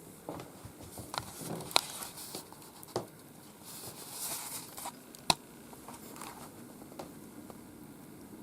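Faint rustling and crinkling in a small room, with a handful of sharp clicks, two of them louder than the rest.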